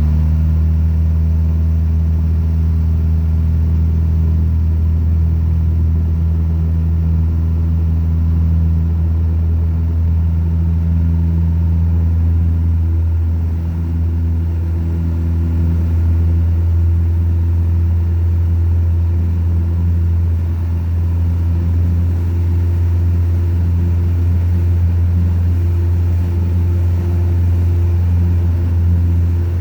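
Light aircraft's piston engine and propeller running steadily at takeoff power during the departure run and climb.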